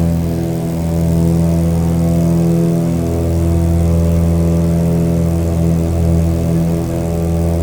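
Propeller airplane engine running steadily at a constant speed, a low even drone with a stack of steady tones.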